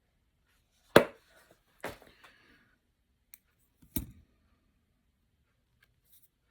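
Sharp clicks and knocks of small fly-tying tools handled at the bench: three distinct knocks a second or two apart, the first the loudest, with a faint tick between them.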